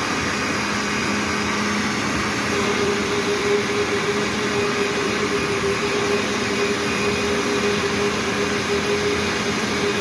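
Household blender motor running steadily, beating cooking oil, caustic soda, detergent and fabric softener into a liquid soap mixture. A steady hum shifts higher a couple of seconds in.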